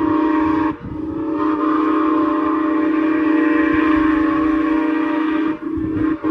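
A train sounding long blasts of its warning whistle or horn as a steady chord. There is a brief break less than a second in, a long blast, then short breaks near the end, with a low rumble underneath.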